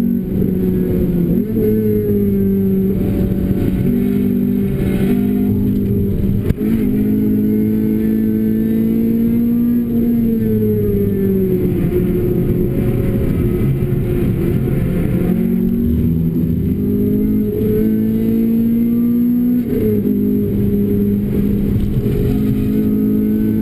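Renault Clio RS engine through a Bastuck aftermarket exhaust, driven hard on track. The revs climb and fall again and again, with sharp dips at the gear changes and falling pitch as the car lifts off and slows for corners.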